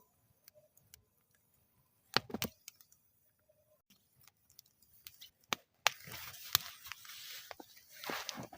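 Wood fire in a metal fire bowl crackling, with scattered sharp pops, a quick cluster of snaps about two seconds in, and denser crackling over a faint hiss from about six seconds in.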